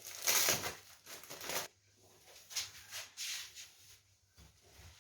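Rustling and handling noises: two longer noisy rustles in the first two seconds, then a few shorter ones around the three-second mark.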